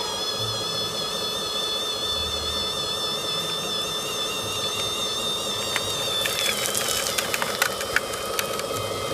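Radio-controlled 1/14 scale Mercedes-Benz tipper truck running with a steady high whine that drops in pitch about six seconds in, followed by a quick run of clicks and ticks for a couple of seconds.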